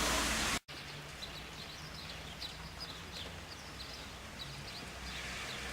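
A loud noisy haze cuts off abruptly about half a second in. Many short, high bird chirps follow over a steady outdoor background.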